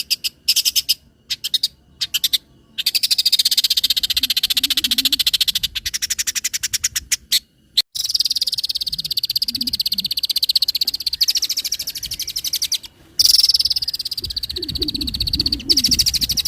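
Long-tailed shrike (cendet) giving a rapid, harsh rattling chatter of fast repeated ticks. A few short bursts come first, then long rattling runs broken by two brief pauses.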